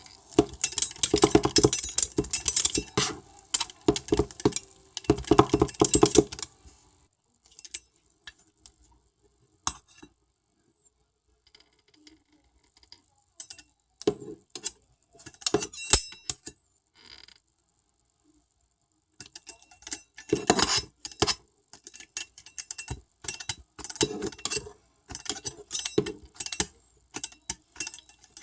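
Metal utensils rapidly tapping, chopping and scraping on a hard flat surface, in dense runs of clicks that stop for a quiet stretch in the middle before starting again.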